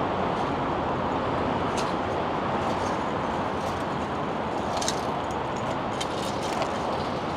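Steady outdoor city ambience: an even rushing background noise of the kind that traffic makes, with a few faint clicks.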